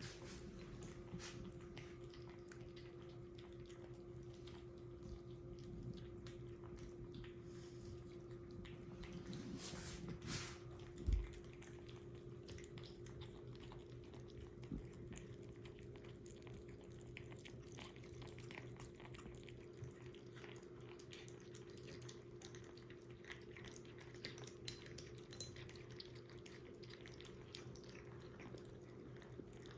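A kitten eating, with faint small wet clicks and ticks of chewing over a steady low electrical hum. One short thump about eleven seconds in.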